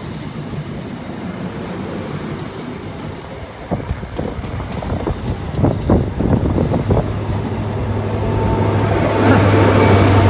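High Speed Train's Class 43 diesel power car pulling out, the engine under power. A few sharp clanks come from the train about halfway through, then a steady low engine drone builds and grows louder toward the end as the power car draws near.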